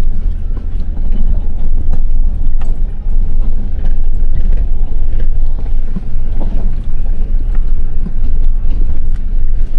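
A vehicle driving slowly along a dirt driveway: a steady low rumble of engine and tyres, with occasional light knocks from bumps.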